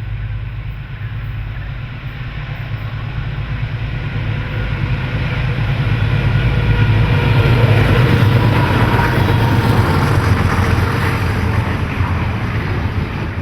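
Diesel freight locomotive running under load with a deep, throbbing engine note and a rushing rumble of the train. It grows louder toward the middle and stays loud, easing slightly near the end.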